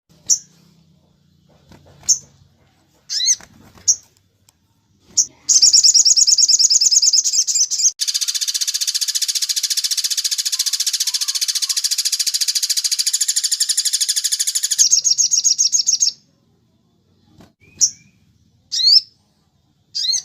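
Songbird song from a sogon masteran recording: a few short, high chirps, then about five seconds in a fast rapid-fire trill ('tembak') that runs for some ten seconds before breaking back into short chirps.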